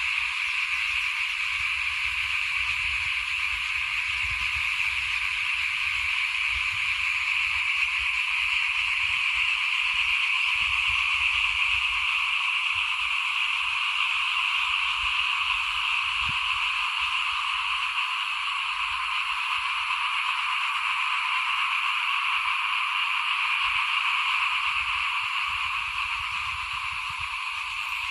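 A chorus of many small rice-field frogs calling all at once, a dense, steady, high-pitched din with irregular low rumbling underneath.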